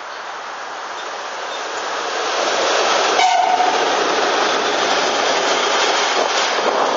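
A train passing close by: the noise of its wheels on the rails builds over the first few seconds and then stays loud. About three seconds in, a short horn tone sounds.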